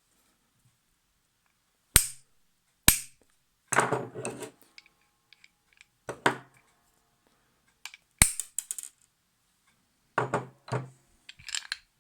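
Hammer tapping on the handwheel assembly of a vintage Necchi Supernova sewing machine to drive out its bearing: three sharp, ringing strikes, two close together about two and three seconds in and one about eight seconds in, with smaller knocks and clatter of parts in between.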